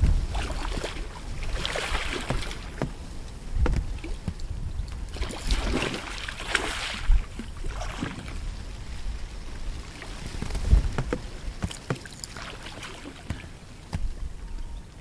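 Gusty wind buffeting the microphone: an uneven deep rumble with a few sharp knocks, under swells of rustling hiss that rise and fall every few seconds.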